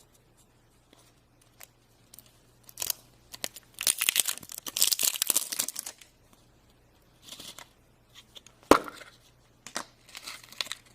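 A Hello Kitty surprise toy's wrapper being torn open and crinkled in scattered bursts, with a longer stretch of tearing about four seconds in. A single sharp click comes near the end.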